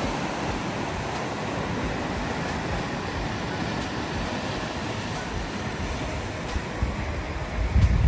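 Steady wash of ocean surf, with wind buffeting the microphone; the wind rumble grows stronger near the end.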